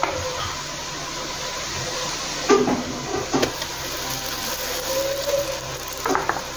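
Sliced onions frying in oil in a nonstick pan, a steady sizzle, as a ground coconut-and-spice masala paste is spooned in on top. There are two short knocks, about two and a half and three and a half seconds in.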